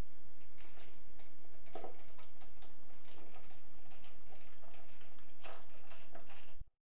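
Irregular light clicks and taps, a few every second, over a steady low hum; everything cuts off suddenly near the end.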